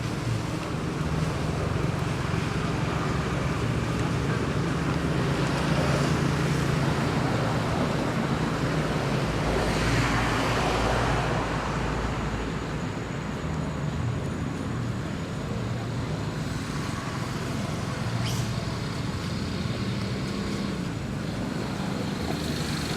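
Steady road traffic noise, with one vehicle passing louder about ten seconds in.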